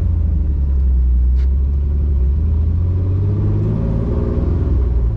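Turbocharged Pontiac Grand Am GT engine pulling away under acceleration, its note climbing in pitch a few seconds in. The owner says the car has a bad exhaust leak.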